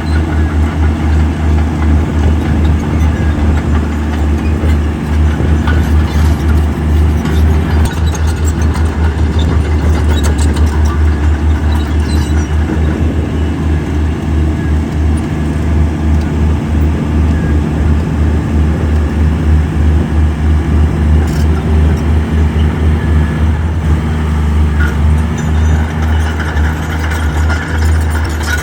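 Heavy diesel engine of earthmoving machinery running steadily with a deep, rapid throb, and a few brief knocks over it.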